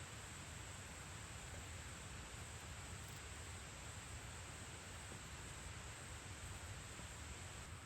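Faint, steady background hiss with a constant high-pitched band and no distinct events.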